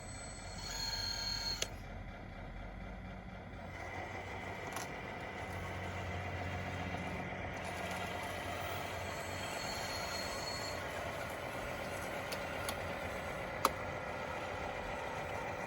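DXR2 radio-controlled bulldozer running: a steady electric whine and hum from its drive, getting a little louder after a few seconds, with one sharp click near the end.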